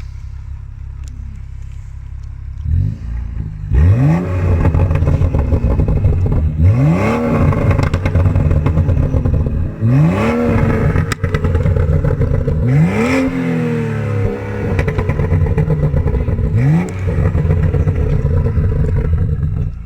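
Car engine idling, then revved hard about six times, each rev a quick rising then falling sweep, through a loud, nearly straight-piped cat-back exhaust. The engine has been warmed up.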